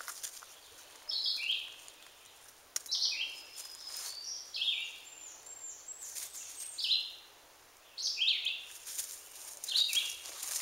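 A songbird singing a short phrase that steps down in pitch, repeated about every second and a half, with a few light rustles and clicks in dry leaf litter.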